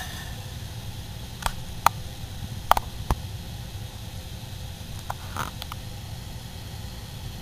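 Steady low background hum with a few short, sharp clicks: four in the first three seconds and a couple more about five seconds in.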